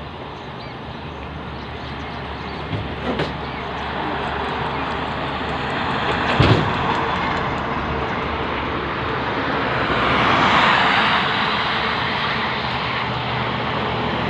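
Highway traffic running past, with a vehicle passing close and loud about ten seconds in. Two brief knocks sound about three and six and a half seconds in.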